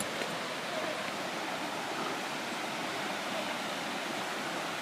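Steady rush of a large waterfall.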